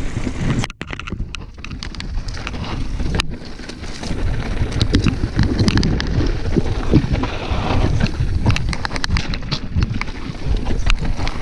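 Mountain bike riding fast downhill on a dirt trail: wind rushing over the microphone, with the tyres rumbling over dirt and rocks and many sharp rattling clicks from the bike. The sound cuts out briefly about a second in.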